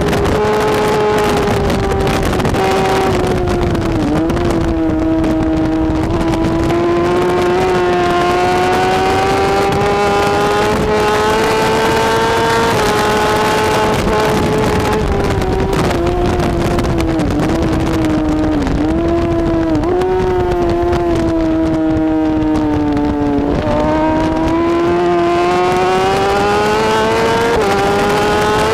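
Racing superbike's inline-four engine running hard at high revs without a break. Its pitch climbs steadily, then drops or jumps sharply a few times, as at gear changes, over wind and road noise.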